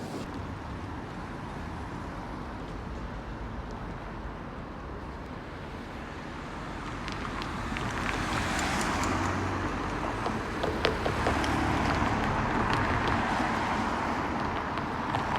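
Road traffic: cars passing, their tyre and engine noise swelling from about halfway through.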